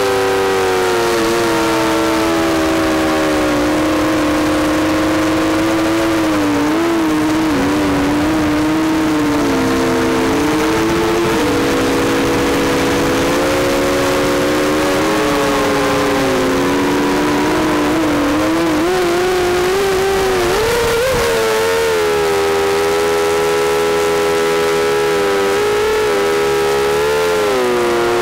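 ZMR 250 racing quadcopter's brushless motors and propellers whining in flight, the pitch rising and falling as the throttle changes, with a quick upward surge about two-thirds of the way through.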